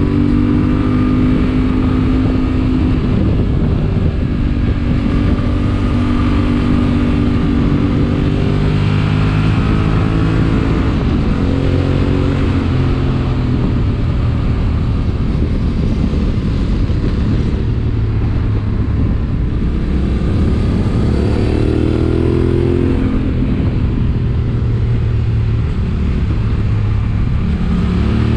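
Yamaha Ténéré 700's parallel-twin engine running under way, its pitch rising and dropping several times with throttle and gear changes.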